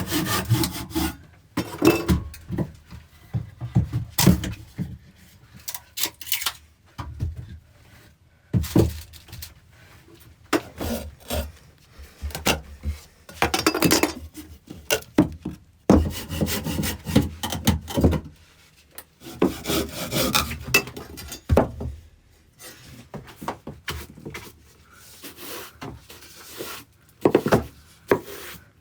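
Wood being worked by hand: irregular saw strokes and wood rubbing and scraping, broken by short knocks.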